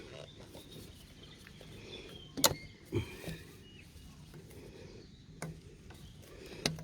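Scattered sharp clicks and light knocks of plastic parts being handled and unclipped while the coolant reservoir is removed, four in all; the loudest comes about two and a half seconds in.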